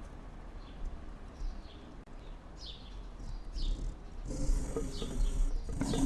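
A small bird repeating a short, falling call about once a second over a low, steady rumble. From about four seconds in, a louder rushing noise with a low hum rises beneath the calls.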